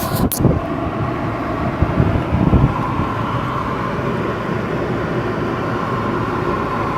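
2010 Audi A6 heater/AC blower fan running steadily: a rush of air with a faint whine, freshly cleaned of leaves and dirt so that its annoying noise is gone. A few low thumps sound in the first seconds.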